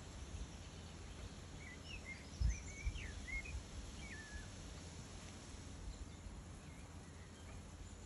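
Faint outdoor ambience with a songbird singing a short string of quick whistled notes, some sliding up and some down, in the first half. Under it runs a low rumble, with a low thump about two and a half seconds in that is the loudest sound.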